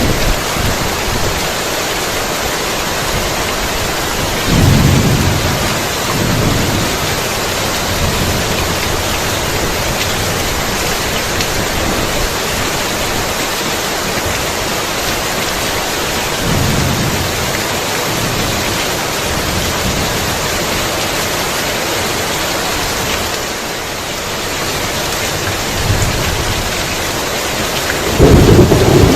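Heavy rain falling steadily, with rolls of thunder rumbling twice, about 5 s and 17 s in, and a louder thunder rumble breaking near the end.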